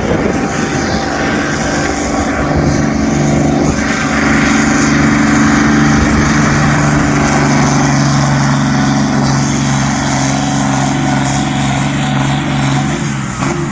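Competition pulling tractor's engine running hard at high, steady revs under load on the pull, with a thin high whistle that climbs about halfway through; near the end the engine backs off and the whistle falls away.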